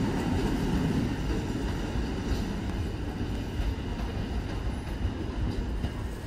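Heritage train's passenger carriages rolling past and away along the track: a low wheel-on-rail rumble that slowly fades as the last carriage recedes.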